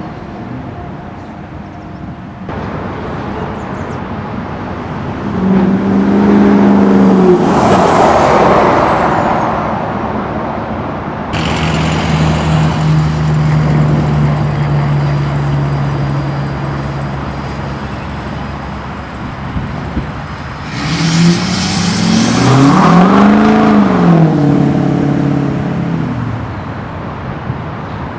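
Ford 6.0 Powerstroke V8 turbodiesel with a straight-piped axle-dump exhaust, running loud. It revs up and back down twice, a few seconds in and again near the end, with a steadier drone between.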